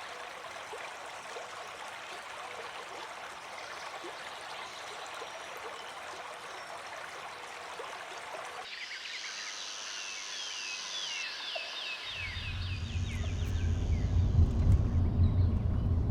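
Rainforest stream rushing steadily; about two thirds of the way in it cuts to a rapid series of high chirping animal calls, about four a second, and near the end low music swells in under them.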